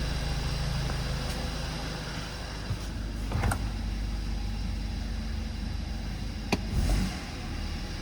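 A 2016 BMW 320i's 2.0-litre turbocharged four-cylinder engine idling steadily, with a couple of sharp clicks over it.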